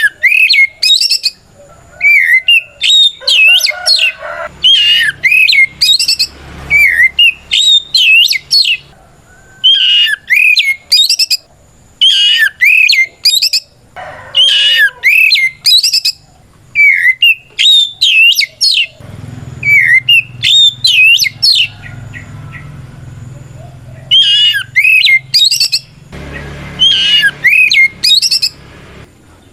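Oriental magpie-robin (kacer) singing its loud challenge song, calling out a rival. The song comes in repeated short phrases of rapid, sweeping whistled notes with brief pauses between them.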